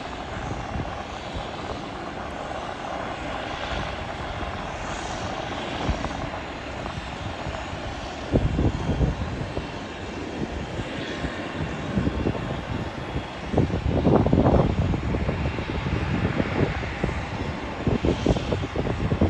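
Airliner engines running with a steady rushing roar. From about halfway through, gusts of wind buffet the phone's microphone with irregular low rumbles.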